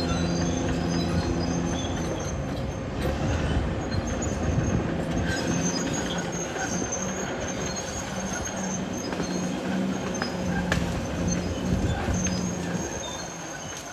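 Caterpillar D6R XL bulldozer working, its diesel engine running under load with the steel tracks clanking and giving off intermittent high squeaks.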